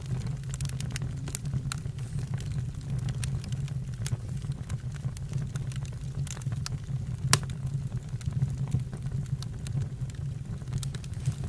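Campfire burning: irregular crackles and sharp pops over a steady low rumble, with one louder pop about seven seconds in.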